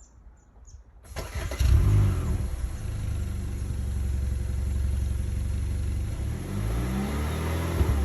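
Hyundai Avante (Elantra) CN7's stock 1.6-litre four-cylinder engine and exhaust: the engine starts about a second in, flares up briefly, then settles to a steady idle, and revs up near the end.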